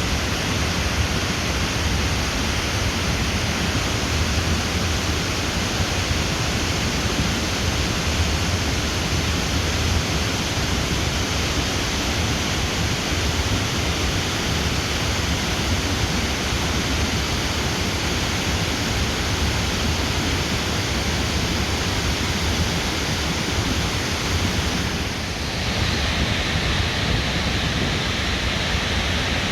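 Waterfall: a loud, steady rush of falling water, changing in tone briefly near the end.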